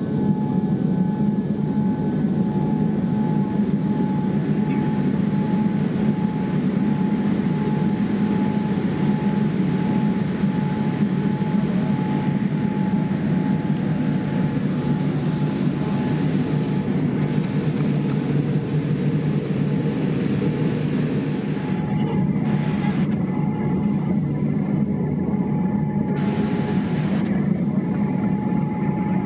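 Steady low rumble of a vehicle in motion heard from inside its cabin, with a faint steady tone above it.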